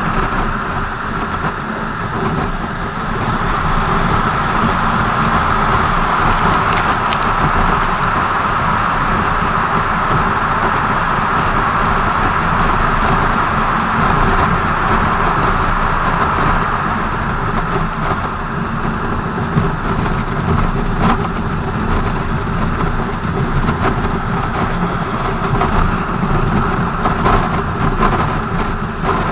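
BMW R 1200 GS boxer-twin motorcycle being ridden, its engine running under a steady rush of wind and wet-road tyre noise.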